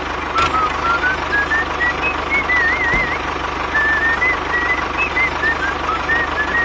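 A small engine running steadily with a fast, even chug, under a high whistle-like tune of short rising and sliding notes with a wobble in the middle. A click about half a second in and a low thump about three seconds in.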